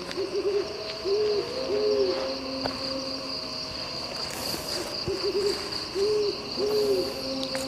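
Hooting calls from a bird: a short quavering note followed by two single hoots, heard twice about five seconds apart. A steady high insect chirring runs underneath.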